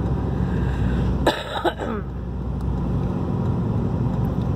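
Steady low road and engine noise inside a moving car's cabin, driving on a snowy road. About a second and a half in, a short throaty vocal noise, like a cough, cuts through briefly.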